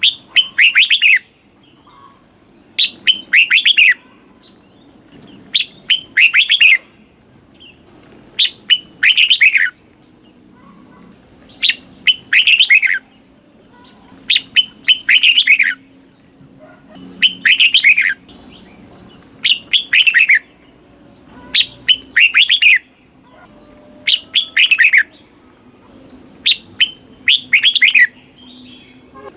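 Red-whiskered bulbul singing: short, bright whistled phrases of about a second each, repeated every two to three seconds. A faint low hum runs underneath.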